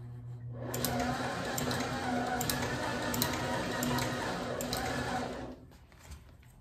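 Claes leather patcher sewing machine stitching new leather binding onto a glove: a motor hum, then about five seconds of steady sewing with a few sharp ticks, stopping shortly before the end.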